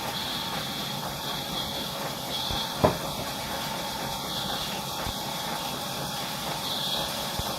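Wood-cutting saw machine running with a steady hissing noise, and one sharp knock about three seconds in.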